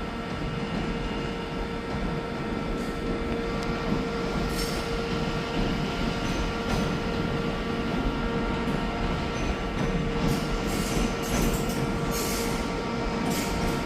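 A train running, with a steady multi-tone hum and brief high-pitched noises that come and go, more often in the second half.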